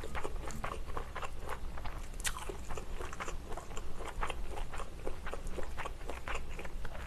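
Close-miked chewing of a mouthful of food: irregular soft crunches and small mouth clicks, several a second.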